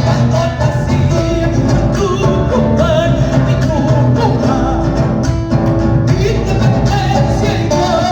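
Live Latin music played loud through a PA system, with a woman singing over a steady bass line.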